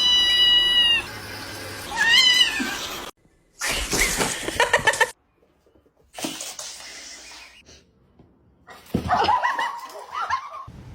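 Domestic cats meowing in a string of short clips separated by abrupt cuts: a high, held meow at the start, a meow that rises and falls about two seconds in, and a longer wavering call near the end. Around four seconds in there is a burst of rapid repeated pulses.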